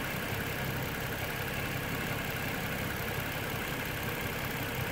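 Nissan VQ35DE 3.5-litre V6 idling steadily at operating temperature, heard close up at the open engine bay.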